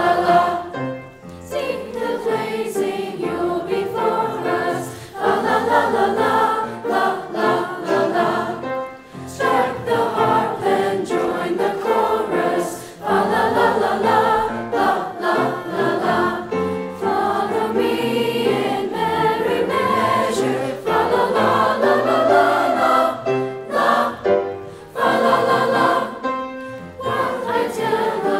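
A chorus singing together, in sung phrases broken by a few short pauses.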